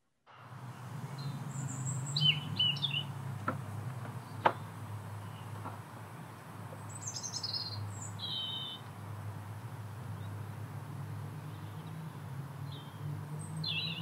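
Garden birds giving short, scattered chirps and trill calls over a steady low background rumble, with a sharp knock about four and a half seconds in.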